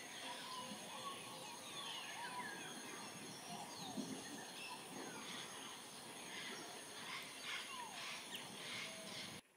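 Wild birds calling: many short chirps and sliding whistles, scattered and overlapping, over a steady thin high tone.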